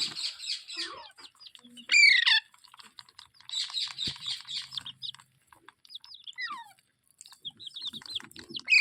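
Rose-ringed (Indian ringneck) parakeet chirping and squawking in short bursts of chatter, with a few sliding calls; the loudest is a quick squawk about two seconds in.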